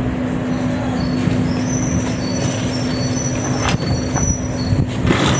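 A steady mechanical hum with a low rumble, like a motor or engine running. Faint high thin tones come and go over it, and there are a couple of short clicks near the end.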